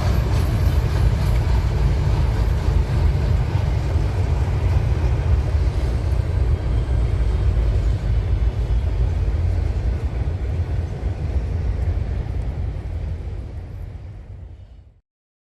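Train rolling past with a steady heavy rumble of wheels on rail, fading over the last couple of seconds and cutting off abruptly near the end.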